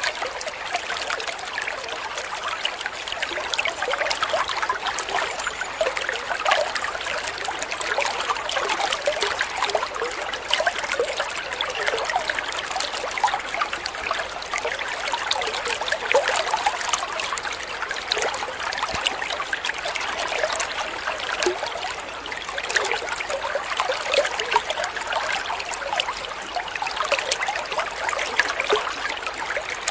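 A small stream trickling and splashing over stones, steady throughout with many tiny splashes.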